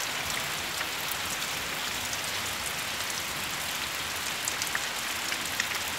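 Steady rain falling on a puddled bare-earth yard, an even hiss of drops on water and wet ground, with a few sharper ticks in the second half.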